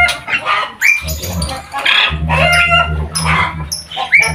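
Many caged birds calling at once: overlapping chirps, whistled notes and short rising calls, some with a crowing, fowl-like quality, over a steady low hum.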